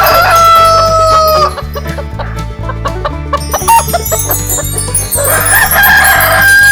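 A rooster crowing: one long crow ends about a second and a half in, short clucks follow, and a second long crow starts a little after five seconds. Background music with a steady low beat plays underneath.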